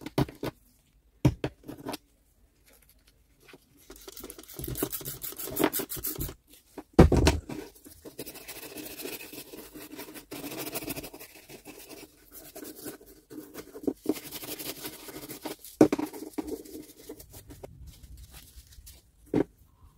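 Hand work on small grinder parts: scattered clicks and knocks of parts being handled, with stretches of scraping and rubbing.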